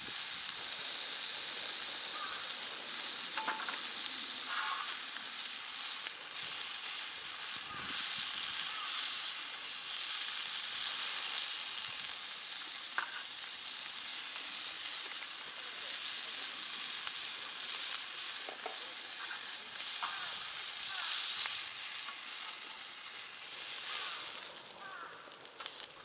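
Meat sizzling on a cast-iron jingisukan (Genghis Khan) grill pan heated over a wood fire: a steady frying hiss with small scattered pops.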